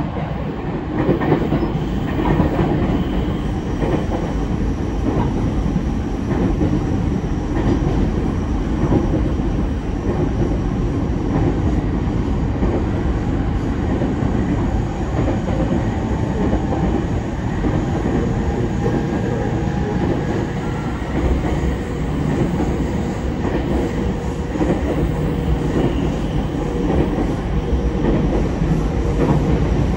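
Interior running sound of a JR E231 series 0 electric commuter car at speed: a steady rumble of wheels on rail and running gear, growing louder in the first second. A thin wheel squeal rides over it.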